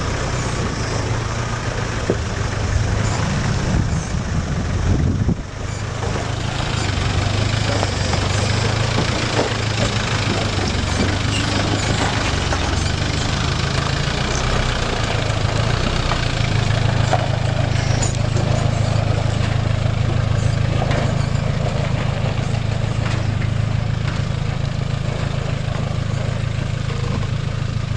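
Off-road vehicle engines running steadily at low revs while crawling over rock, the nearest a UAZ, with occasional knocks of tyres and suspension on stone.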